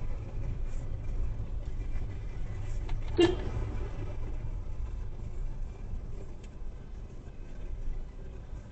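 Steady low rumble of a car's engine and tyres on the road, heard from inside the cabin, with a single sharp knock about three seconds in.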